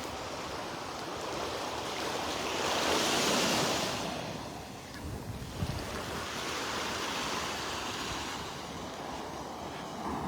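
Gulf of Mexico surf washing onto the beach, swelling louder about three seconds in, with wind buffeting the microphone.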